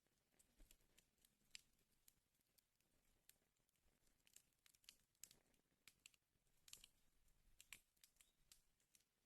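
Wood fire crackling faintly, with irregular sharp pops and snaps from the burning logs, busier about two-thirds of the way through.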